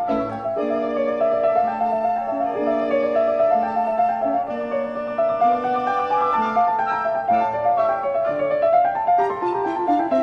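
Background music: a classical-style piano piece playing a flowing melody over sustained lower notes.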